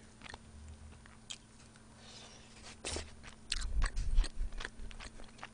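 Close-miked chewing of braised chicken and vegetables (Andong jjimdak), with scattered small mouth clicks and a louder run of chewing about three to four and a half seconds in.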